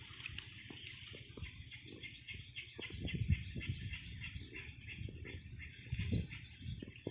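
Outdoor ambience: a steady high insect drone, with a bird chirping in a quick run of short repeated notes, about three a second, for a few seconds in the middle. Low, irregular thumps and handling noises run underneath.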